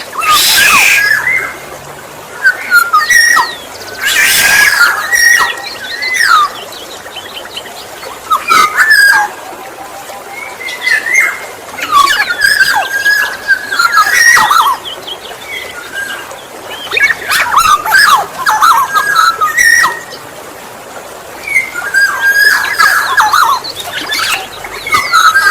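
Black-naped oriole singing: bouts of fluty whistled phrases every few seconds, with two short harsh calls in the first few seconds.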